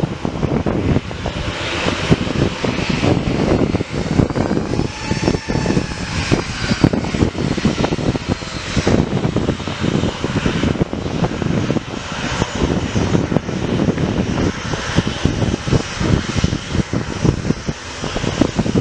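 Fixed-wing aircraft engines running loudly in a steady, rough rumble, with a faint whine that bends in pitch about five to six seconds in.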